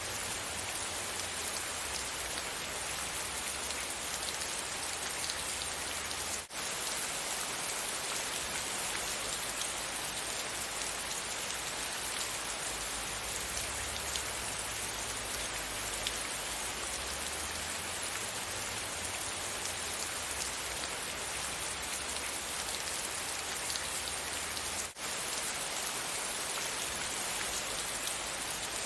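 Steady rain falling, an even dense patter of drops, that cuts out for an instant twice, about six seconds in and near the end.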